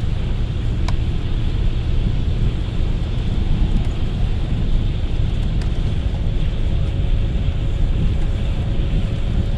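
Inside an intercity coach on the move: a steady low engine and road rumble with tyre noise, a couple of faint clicks, and a faint steady whine that joins about six seconds in.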